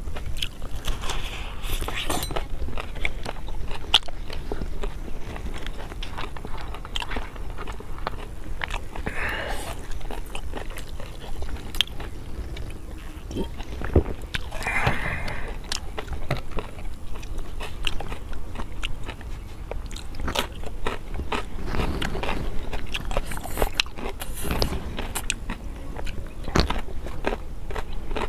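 Close-miked mouth sounds of people eating pork curry and potatoes: chewing and biting with many scattered clicks and a few brief louder noisy moments.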